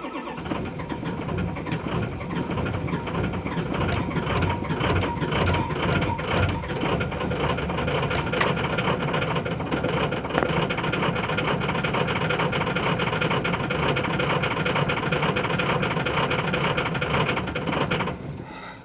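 Ford 6.0 L Power Stroke turbo-diesel V8 being cranked in a hard cold start, a long steady attempt of about eighteen seconds that does not catch, then stops abruptly near the end. The engine was left unplugged from its block heater overnight in the cold.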